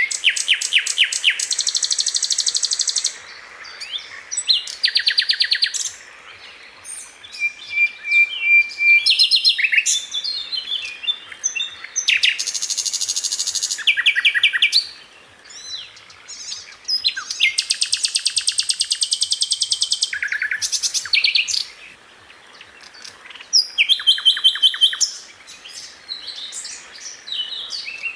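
A Sikatan Londo flycatcher singing: a string of very rapid, high trills, each a second or two long, separated by short pauses and mixed with shorter chirped notes.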